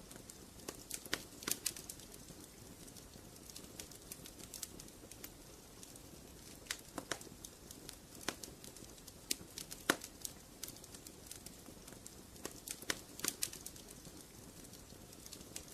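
Wood fire crackling in a fireplace: irregular sharp pops and snaps, some in quick clusters, over a steady low hiss. The loudest snap comes about two-thirds of the way through.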